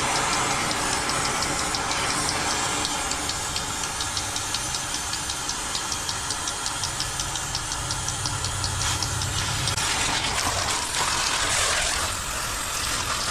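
A metal-cutting tool working through the steel mounts of a tow truck bumper: a steady harsh noise with a fast regular ticking through the middle.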